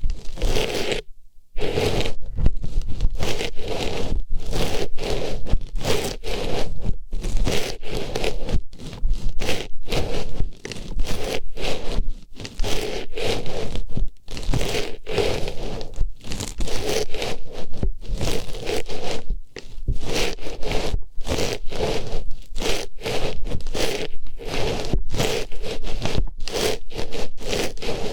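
Artificial flower pushed into and rubbed around a binaural microphone's ear, ASMR ear-cleaning style: close, continuous scratchy rustling and scraping strokes, with a brief pause about a second in.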